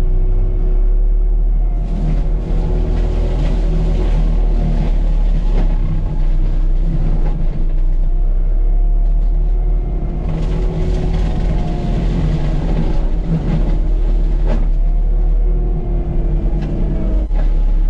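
CAT 259D3 skid steer's diesel engine running hard under load, driving a Gyrotrac forestry mulching head, its pitch wavering as the load changes. A few sharp knocks cut through the steady drone.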